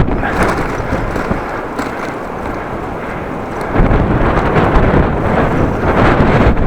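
Strong gusty wind buffeting the microphone as a bicycle is ridden, a loud low rumble. It eases a little in the middle and surges again about four seconds in.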